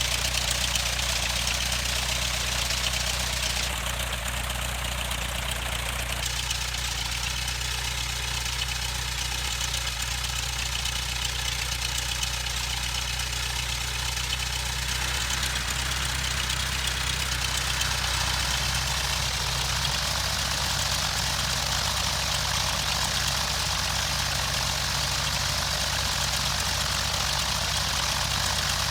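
Cessna 152's four-cylinder Lycoming O-235 engine and propeller running steadily at low, idle-like power.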